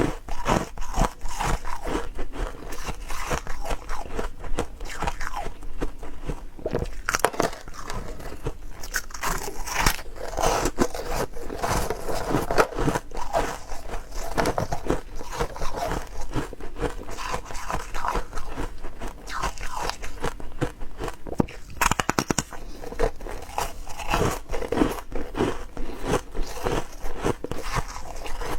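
A person biting and chewing ice cubes, many crisp crunches following one another irregularly and without pause.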